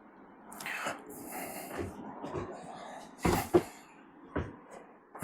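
Knocks, thuds and rustling of someone moving about in a narrowboat. The loudest is a pair of thumps about three and a half seconds in, with single knocks after.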